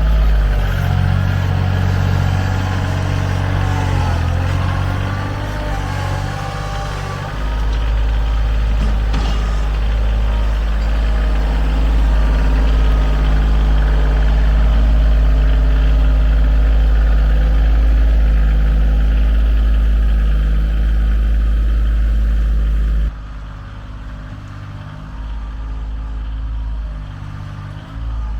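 An engine running steadily with a deep rumble. It gets louder about seven seconds in and drops off abruptly near the end.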